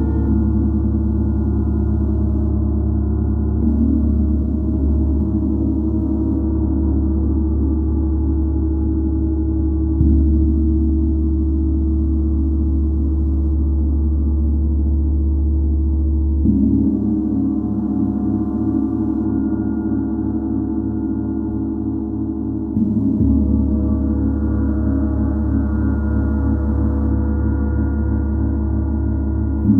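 A gong sounding in a continuous, sustained wash of layered low tones. It swells afresh with soft strikes about a third of the way in, just past halfway, and again about three quarters through.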